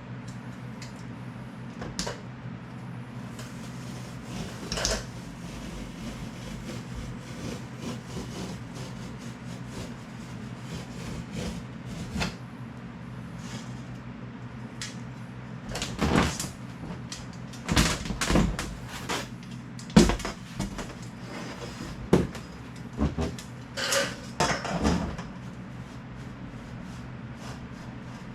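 Scattered knocks and clattering, most of them bunched in the second half, over a steady low hum: the sound of building materials being handled and set in place.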